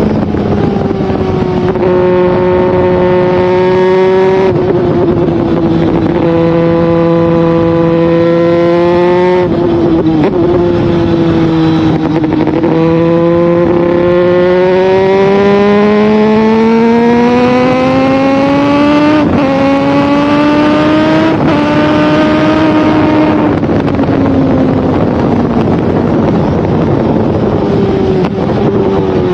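Motorcycle engine running hard with the revs rising and falling. Its pitch holds steady for a few seconds at a time, climbs steadily for several seconds near the middle, then falls away toward the end.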